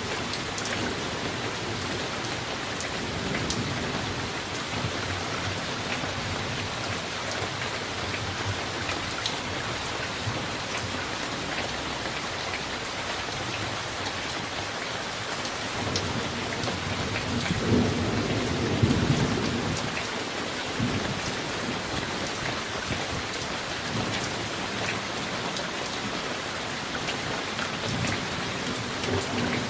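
Steady heavy rain of a summer thunderstorm, drops pattering on a surface. About half way through, a low rumble of thunder swells for a few seconds and fades.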